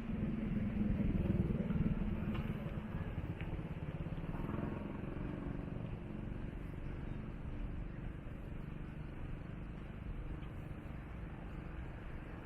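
An engine running steadily with a low rumble, loudest in the first two seconds and then easing slightly.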